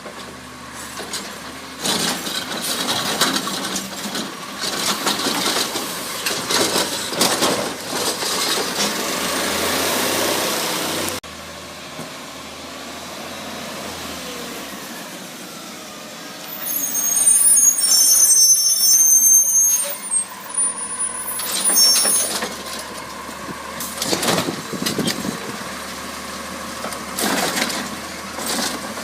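CNG Autocar ACX garbage truck with a Heil Rapid Rail automated side-loader body at work, its engine and machinery running with changing loads. About 17 seconds in comes a loud, high-pitched hiss with squealing tones lasting a few seconds.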